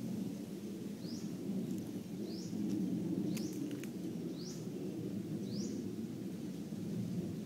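A bird repeating a short rising call about once a second over a steady low rumble. A few sharp clicks come a little over three seconds in.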